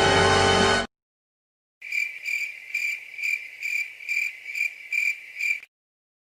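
Cricket chirping sound effect, the classic 'awkward silence' crickets: a high chirp repeating about three times a second for roughly four seconds. Music cuts off abruptly just before it.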